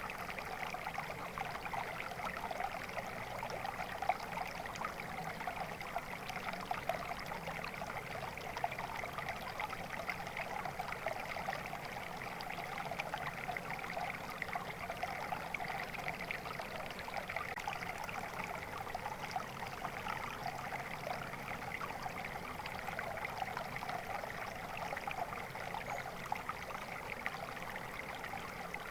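Shallow stream flowing steadily, a continuous babble of small splashes and trickles over stones.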